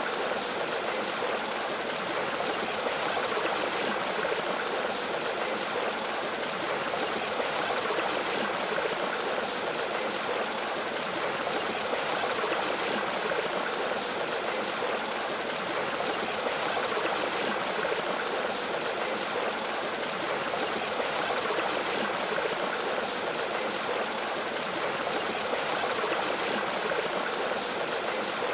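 Mountain stream flowing over rocks with a small waterfall: a steady, even rush of water.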